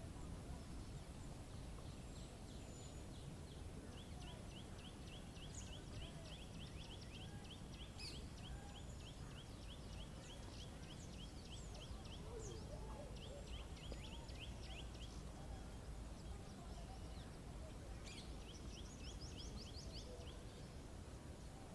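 Birds singing faintly over a low, steady ambient rumble. One bird gives long runs of short, quick chirps, about five a second, starting a few seconds in. The runs pause and come back near the end, with a few other scattered calls.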